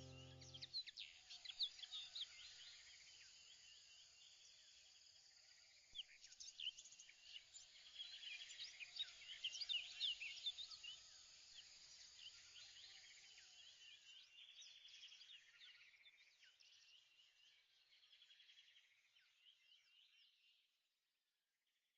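Faint birds chirping, many short quick calls overlapping, fading out shortly before the end.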